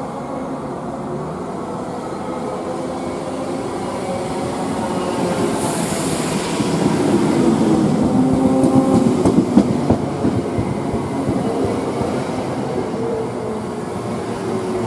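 Greater Anglia Class 317 electric multiple unit running past along the platform. Its running noise swells to a peak about eight to ten seconds in, with a quick run of wheel clicks over the rail joints, then eases as the coaches go by.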